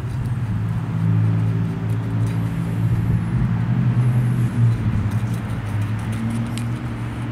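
An engine running steadily at idle, a low hum with a few overtones.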